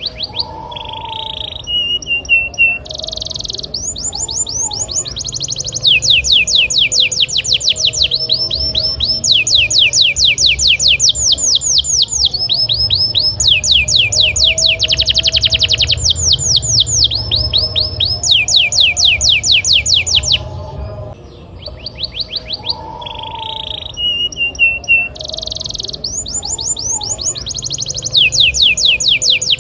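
Domestic canary singing a long, nearly unbroken song of rapid rolling trills. Each phrase is a fast run of repeated high notes at one pitch before it switches to another, with only brief pauses. A steady low hum runs underneath.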